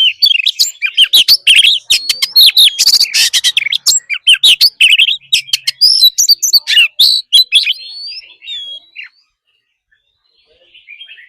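Oriental magpie-robin singing a fast, varied song of whistles, gliding notes and sharp clicks. The song stops about nine seconds in, and faint song returns near the end.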